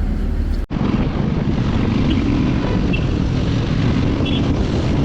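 Motorcycle riding on a highway: steady engine and road noise with wind buffeting the microphone, broken by a brief cut under a second in.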